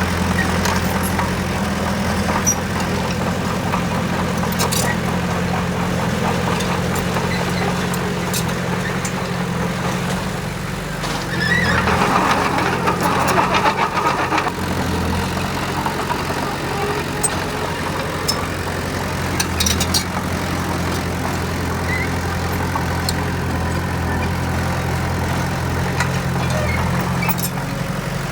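Heavy diesel engine of earthmoving machinery running steadily, with a louder, harsher stretch for two or three seconds around the middle and scattered light clicks.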